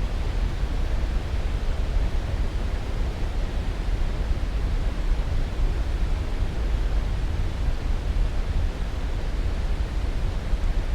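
Steady white-noise sleep track: an even, unchanging hiss that is heaviest in a deep low rumble and thins out toward the highs.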